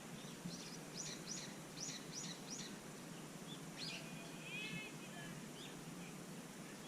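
A bird chirping: a quick run of about five short, high chirps, then a few more brief calls a second or so later, over a steady low background hum.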